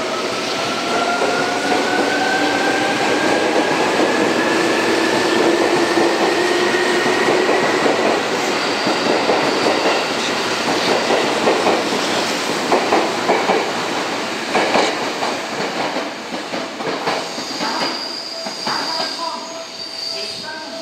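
Seibu 2000-series electric train pulling away: a motor whine rises steadily in pitch over the first eight seconds or so. Then a run of irregular wheel clacks over the rail joints sets in as the cars pass, fading toward the end.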